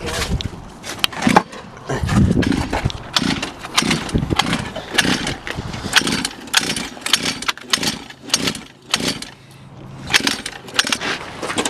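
Small 50cc pit bike engine running, its revs rising and falling unevenly.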